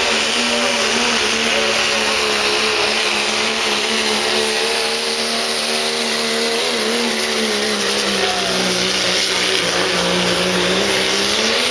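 Diesel pickup truck engine held at high revs under load while pulling a sled, its pitch steady, sagging slightly near the end and then climbing again.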